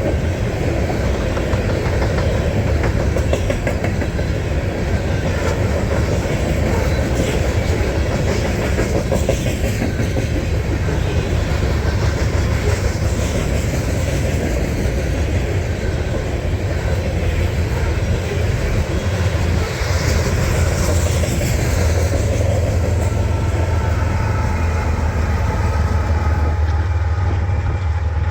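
Freight train cars rolling past at close range: a steady, loud rumble with rapid clickety-clack from the wheels crossing rail joints. Faint wheel squeal comes in over the last few seconds.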